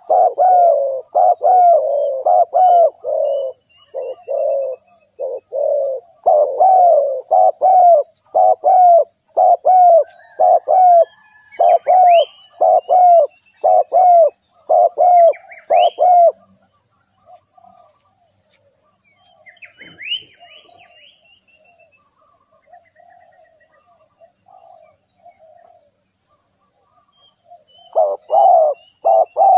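Spotted doves cooing in a fast, unbroken run of repeated coos that stops about sixteen seconds in and starts again near the end. This is decoy-dove calling of the kind used to lure wild doves. A few short high chirps from another bird come in the pause.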